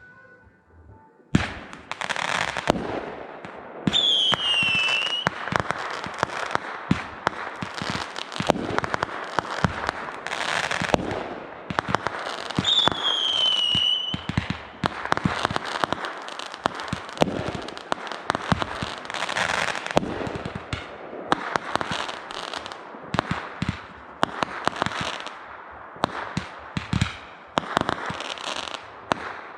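Fireworks going off in a dense, continuous barrage of bangs and crackling that starts suddenly about a second in. Two descending whistles cut through the barrage, one about four seconds in and another about thirteen seconds in.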